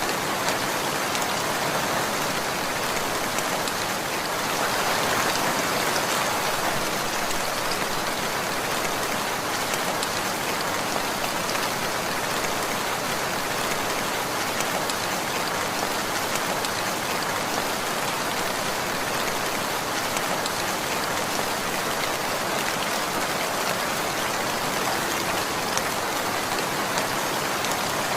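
Steady rainfall: a dense, even patter of raindrops that swells a little a few seconds in.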